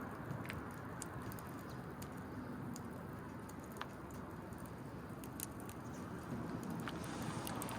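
Small wood fire crackling: scattered sharp pops and ticks at irregular intervals over a steady low background noise.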